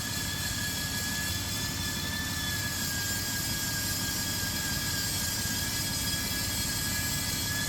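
2008 Dodge Grand Caravan's V6 engine idling steadily, with a thin, steady high whine over the low running sound.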